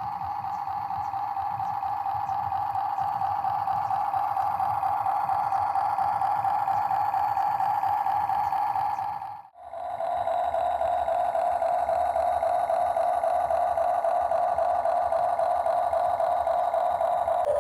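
Steady electric whine of a radio-controlled excavator model's small motor running. It breaks off for a moment about halfway through and comes back a little lower in pitch.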